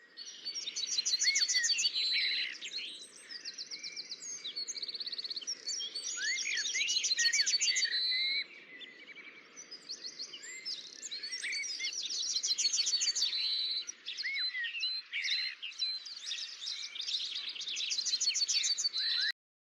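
Songbirds singing: a chorus of fast repeated trills and short rising chirps over faint background hiss, stopping abruptly near the end.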